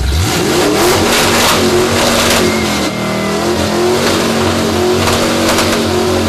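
1974 Ford F-250 pickup's engine with open exhaust headers, revved up sharply and held at high rpm for several seconds with a brief dip about halfway, dropping back near the end. It is very loud, measured at 115 decibels.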